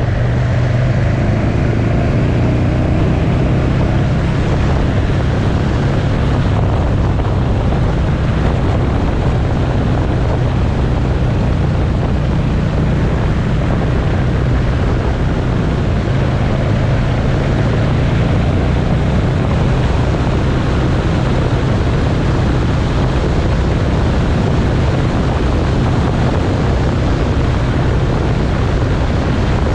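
Motorcycle engine running at a steady road speed, mixed with heavy wind rush over the microphone.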